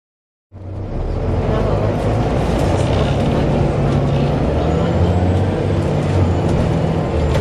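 Volvo B7TL double-decker bus running, a steady low engine drone with scattered sharp rattles from the bus. It starts suddenly about half a second in.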